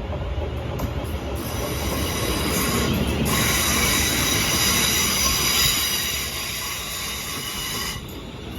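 Class 380 electric multiple unit moving along the platform, a low rumble under a loud, high-pitched metallic squeal of several steady tones. The squeal grows about a second in, is at its strongest from about three seconds in, and stops suddenly near the end.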